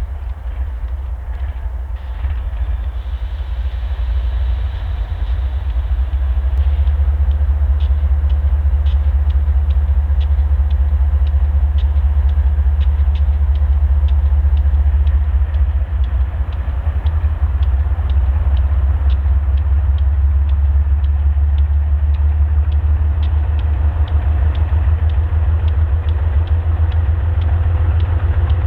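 Freight train rolling past close by: a steady low rumble of the cars with a run of sharp wheel clicks on the rails, growing louder a few seconds in.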